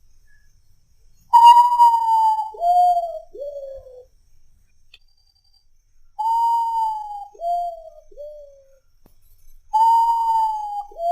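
Common potoo (urutau) singing: a mournful whistled phrase that opens on a long, high note and falls in steps through shorter, lower notes. The phrase is repeated three times, about four to five seconds apart.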